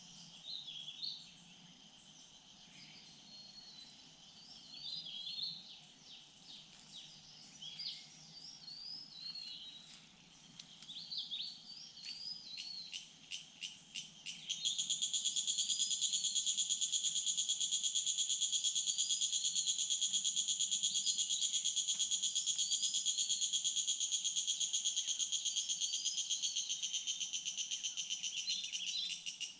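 Small birds chirping and twittering in woodland. About halfway through, a loud, high, steady insect buzz with a rapid pulse starts up and runs on, fading near the end, with the birds still calling over it.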